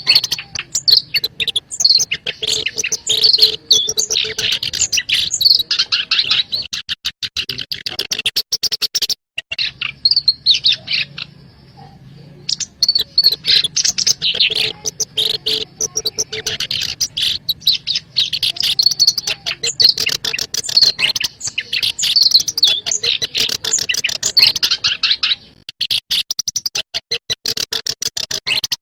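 Black-browed reed warbler singing: a fast, chattering run of rapid notes. It breaks off for about three seconds roughly a third of the way in, and briefly again near the end.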